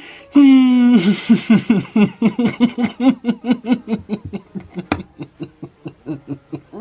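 A person laughing hard: a loud, held, high vocal note that drops off, then a long run of rapid 'ha-ha' pulses, about four a second, that slowly die away.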